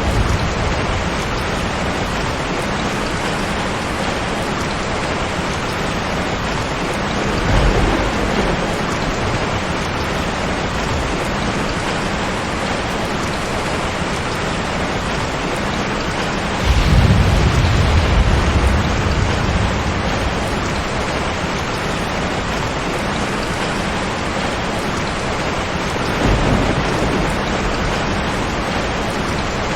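Steady, heavy rain with thunder rumbling through it three times: a short roll about a quarter of the way in, the loudest one breaking in suddenly just past halfway and lasting a couple of seconds, and a third near the end.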